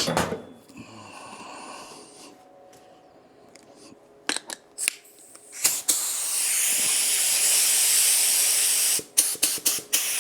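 Compressed-air spray gun (3M Performance gun) spraying: two short trigger puffs, then a steady high hiss of air and atomised coating for about three seconds, then several quick puffs near the end. It is laying a light coat over a taped-off blend edge.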